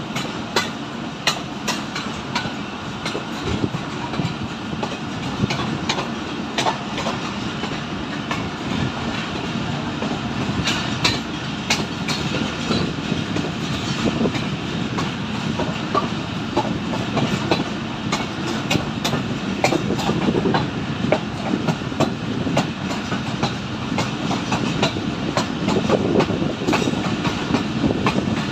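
Pakistan Railways Subak Raftar Express railcar running on the line, heard on board: a steady rumble of the running train with frequent sharp, irregular clicks of the wheels over the rails.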